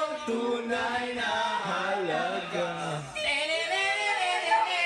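Voices singing, with several lines overlapping and a long held note sliding down in pitch near the middle.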